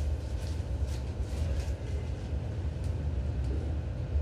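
Seibu New 2000 series commuter train standing at a station, heard inside the car: a steady low hum from its onboard equipment, with a few faint clicks.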